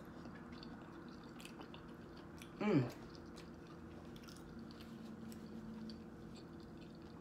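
Close-up chewing of soft food with small wet mouth clicks and smacks, and one short hum from the eater, falling in pitch, about two and a half seconds in.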